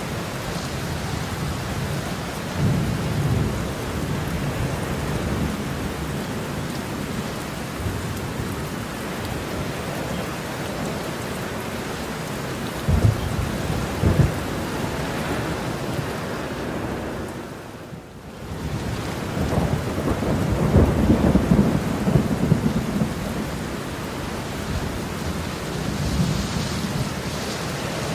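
Heavy rain pouring steadily, with thunder rolling through it: a low rumble a few seconds in, two sharp claps about halfway, and a long rumble a little after the rain briefly fades, with a fainter one near the end.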